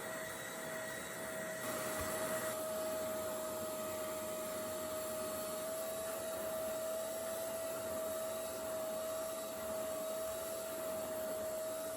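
Hoover Clean Slate portable spot carpet cleaner running: a steady motor whine over the hiss of suction, its sound changing slightly and getting a little louder about two seconds in.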